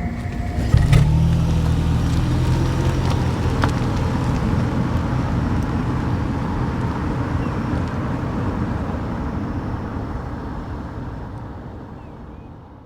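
Motor vehicle engine starting about a second in with a sharp knock, then running steadily at a low pitch and fading away near the end.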